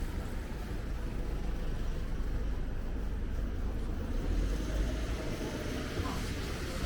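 Street traffic rumbling past in a city centre, with one vehicle passing closer and louder about four and a half seconds in.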